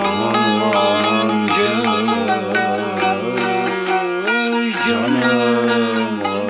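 Turkish folk music (türkü) played on plucked string instruments: a steady low drone under a melody that bends and slides in pitch.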